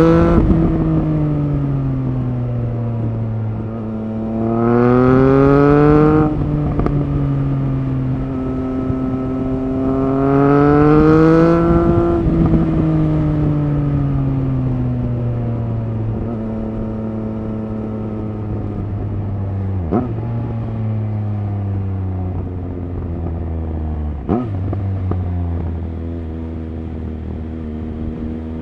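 Triumph Speed Triple RS 1050's inline-three engine under way, its pitch rising twice as it accelerates and falling back as the throttle eases, then running at a steadier, lower pitch. Two short sharp clicks come in the second half.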